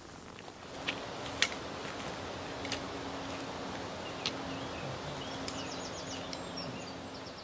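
Open-air ambience with a steady hiss and a few sharp clicks in the first half; from about two-thirds of the way in, a small bird sings rapid, high, wavering trills.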